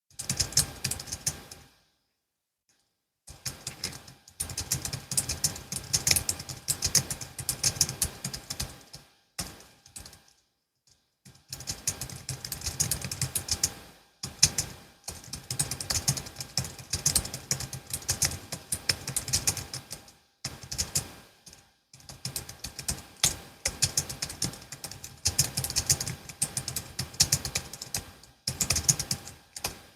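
Typing on a Logitech MX Keys S low-profile scissor-switch keyboard: fast runs of light key clicks in bursts of a few seconds, with short pauses between them.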